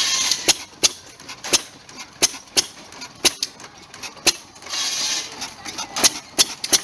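1920 5 hp Monitor hit-and-miss gas engine running, with about ten sharp knocks coming at uneven intervals. Two short hissing stretches come at the very start and about five seconds in.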